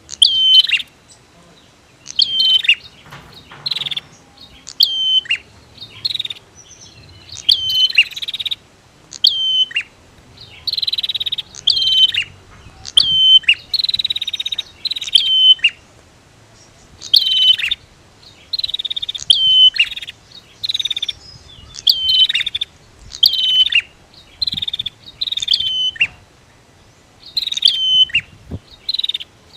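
Prenjak (prinia) calls, with female and male birds alternating. The birds give loud, sharp, high notes that drop in pitch, repeated about every second or so, and some calls run on as short buzzy trills.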